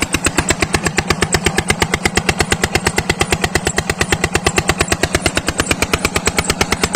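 Old Petter diesel engine running steadily, a fast, even chugging beat of about eight strokes a second, while driving a tubewell water pump.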